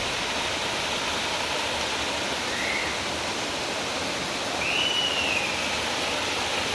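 Steady rushing noise of a waterfall. Two short high-pitched whistle-like sounds cut through it, a brief one near the middle and a longer arching one later.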